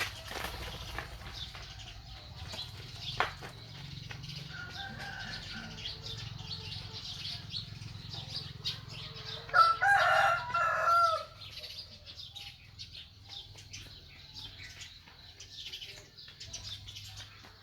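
A rooster crowing once, a loud call lasting about a second and a half, about ten seconds in. It sits over steady light rustling and scattered faint chirps.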